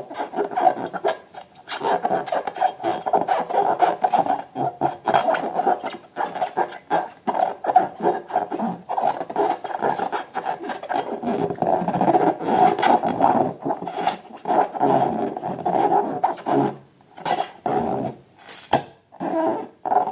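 Slime being squeezed and worked by hand, giving a run of wet squelches and crackling pops over a rubbery squeaking.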